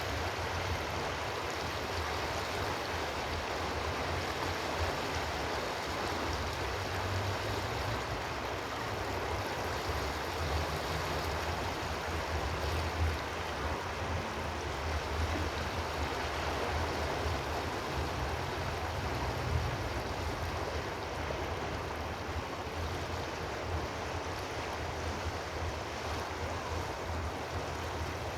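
Steady rushing of flowing water, with a fluctuating low rumble underneath.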